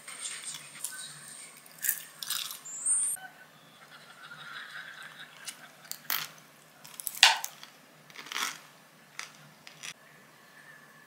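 Close-up eating sounds: crunchy chewing and biting of a glazed chicken skewer, in irregular sharp crunches.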